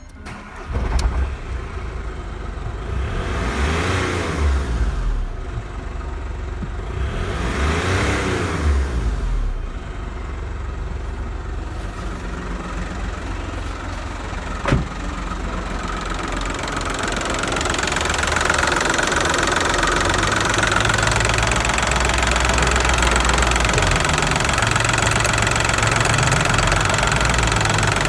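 VW Polo 1.4 TDI (BAY) three-cylinder diesel engine starting about a second in, revved up and back down twice, then idling steadily with diesel knock.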